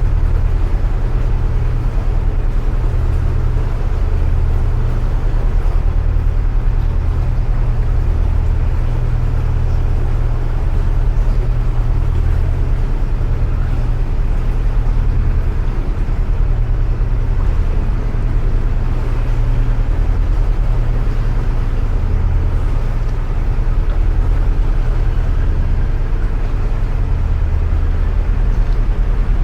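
Narrowboat engine running steadily while the boat motors through a canal tunnel, a low drone that slowly swells and fades.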